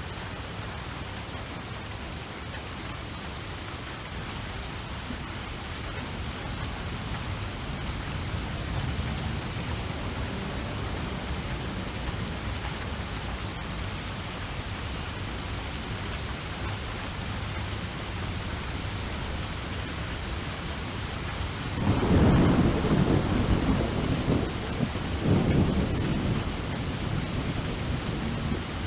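Steady rain with a rolling thunderclap about three quarters of the way through, rumbling for a few seconds, then a second swell of thunder shortly after.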